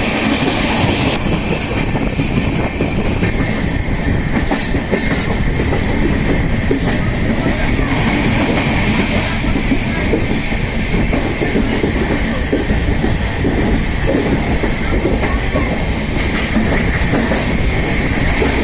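Indian Railways passenger train (Udyan Express) running on the rails, heard from the coach: a loud, steady rumble of wheels on track with a constant high-pitched whine above it.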